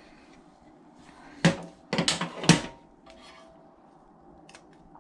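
A few sharp clicks and clacks of small parts being handled on a workbench: one about a second and a half in, then a quick cluster of several around two to two and a half seconds in, with fainter ticks later.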